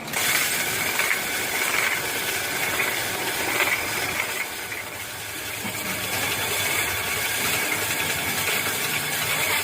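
A machine running with a steady mechanical rattle, starting abruptly.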